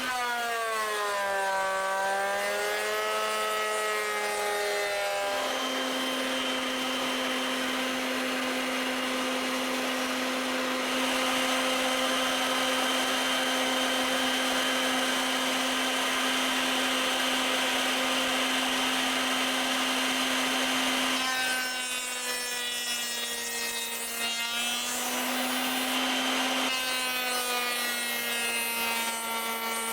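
Electric router running with its bit cutting a dado groove in a pine board: a steady motor whine with overtones and a rushing cutting noise. The pitch wavers in the first few seconds, holds steady, then drops slightly and sounds rougher for several seconds about twenty seconds in, as the bit takes more load.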